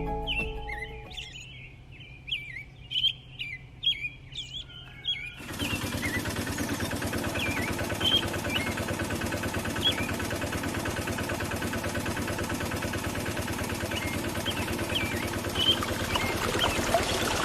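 A small electric motor switches on about five seconds in and runs steadily with a fast, even buzz. Birds chirp throughout.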